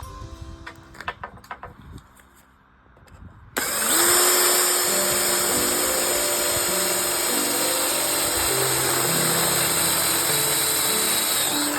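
An electric drill starts about a third of the way in, winds up and runs steadily for about eight seconds before stopping near the end, boring a 5/16-inch hole for a bolt. Background music plays throughout.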